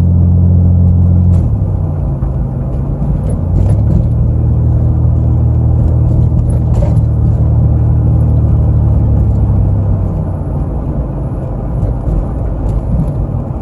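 A road vehicle's engine drones steadily with road noise while driving. The engine hum drops off about a second and a half in, comes back strongly from about three and a half seconds, and fades again about ten seconds in.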